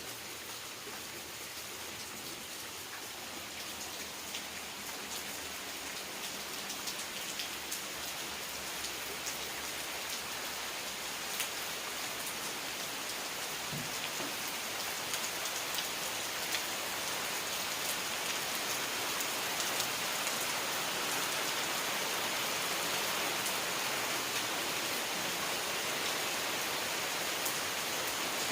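Steady rain falling, with many small drop ticks on surfaces, growing gradually heavier.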